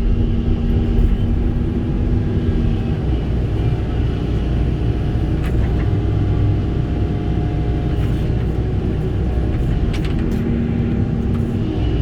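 Kobelco SK85 excavator's diesel engine running steadily under hydraulic load as the machine digs and moves soil. Its note shifts a couple of times, with a few light clicks.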